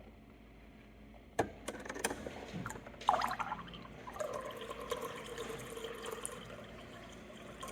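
A click, then water flowing through the reverse osmosis filter system, with the system's pump starting up about four seconds in and humming steadily.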